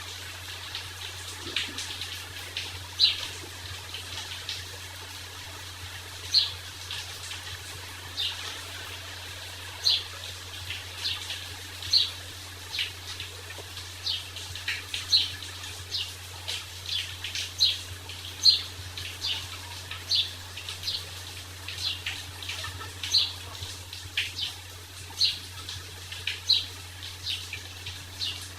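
Small birds chirping, short high chirps repeating irregularly about once or twice a second, over a faint steady hiss and a low steady hum.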